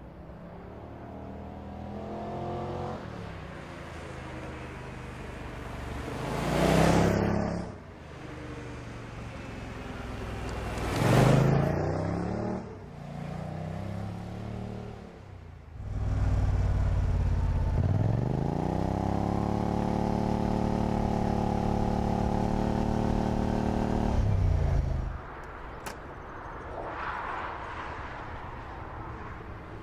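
Muscle car engines: two loud swells as cars go past, about seven and eleven seconds in, then an engine revs up and holds high revs steadily for about seven seconds before cutting off suddenly, with another, fainter pass near the end.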